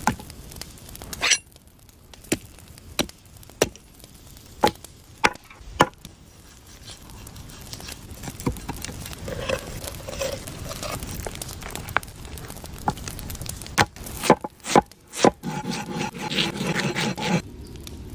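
Sharp knocks on a wooden cutting board, about one a second, as food is cut or prepared, with rubbing and handling sounds between them and a quick run of knocks near the end.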